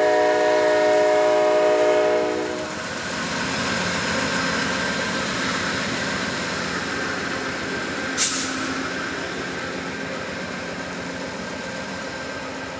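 Amtrak passenger train's locomotive air horn holding a steady multi-note chord that cuts off about two seconds in, then the rumble of the train rolling away and slowly fading. One brief sharp sound about eight seconds in.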